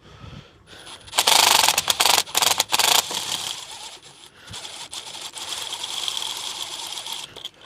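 12-volt Milwaukee cordless driver undoing a bolt: a loud rattling run in several short pulses from about one to three seconds in, then a steadier, quieter whirr that stops near the end.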